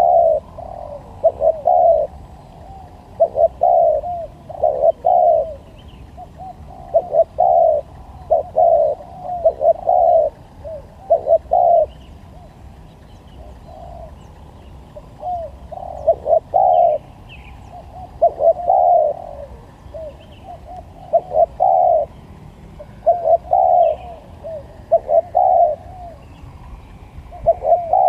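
Spotted dove cooing over and over in short phrases of a few notes, with brief gaps between phrases. Faint small-bird chirps sound higher up in the background.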